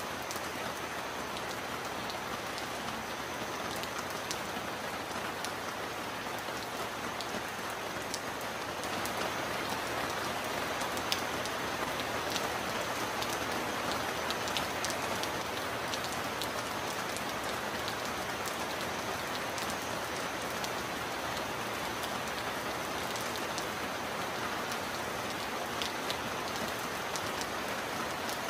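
Heavy rain falling steadily, with sharp ticks of single drops scattered through it. The rain grows a little louder about nine seconds in.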